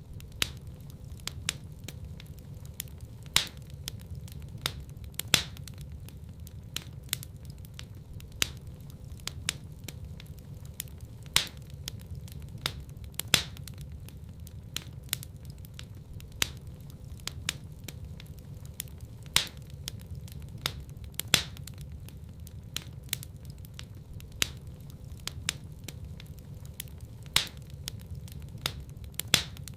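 Wood fire burning in a fireplace: irregular sharp crackles several times a second, with louder pops every couple of seconds over a steady low rumble.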